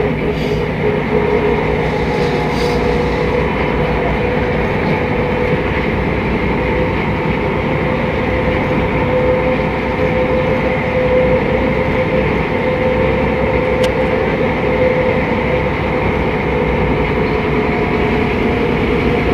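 Mercedes-Benz O500MA articulated city bus running along, heard from on board: steady diesel engine drone and road rumble with a constant whine over it.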